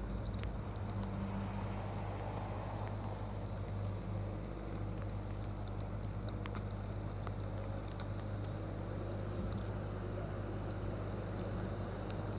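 Steady low hum of a running vehicle engine, with a few faint clicks.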